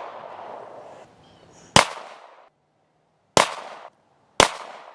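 Three shots from a Glock 19 9mm pistol, the first about a second and a half before the second and the third a second after that, each followed by a short ringing decay. The tail of a shot fired just before fades out at the start.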